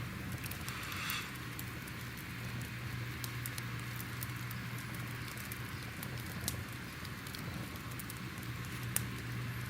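Crackling fire: a steady hiss over a low rumble, with scattered sharp pops and snaps throughout and a brief louder hiss about a second in.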